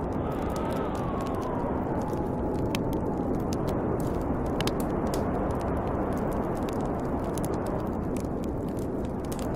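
Snowstorm wind blowing steadily, with a faint whistling howl that slides down in pitch over the first few seconds, and a wood fire crackling with scattered sharp pops.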